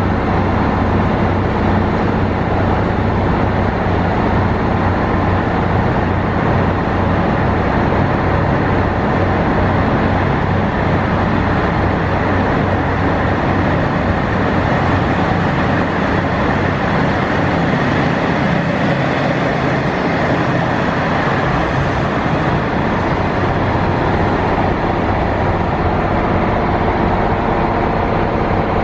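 Diesel engine of a JR Hokkaido KiHa 40 series railcar running steadily, with a low, even hum.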